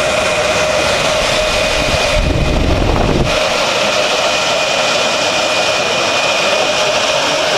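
High-capacity W-type exhaust fan running steadily: a loud rush of moving air with a steady hum tone through it. A low rumble joins it for about a second, a little over two seconds in.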